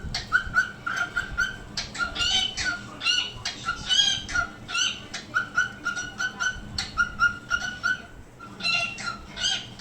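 Pet parrot calling in a quick run of short repeated notes, about three or four a second, with louder chirpy bursts mixed in.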